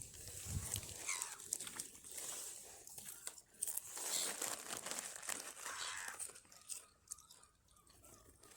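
Crisp packet crinkling and rustling as it is handled, dying down about seven seconds in.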